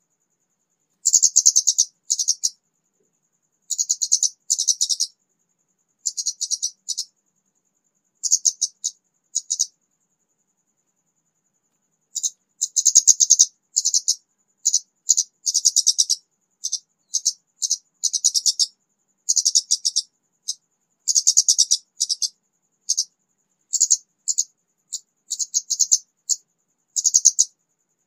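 Orange-headed thrush, a newly caught bird just starting to sing, giving short rapid phrases of high notes again and again with brief pauses, and one longer pause about ten seconds in.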